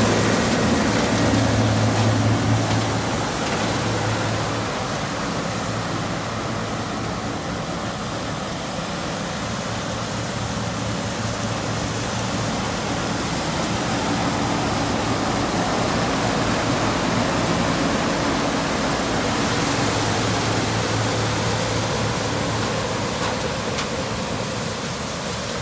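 New Holland CR 8.90 twin-rotor combine harvesting corn. A steady low engine hum comes and goes over a continuous rushing noise from the machine working the crop.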